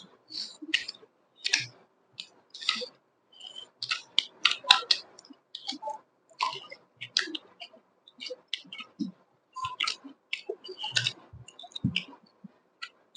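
A person chewing meat with wet mouth smacks, sounding as a steady run of short, irregular clicks and smacks.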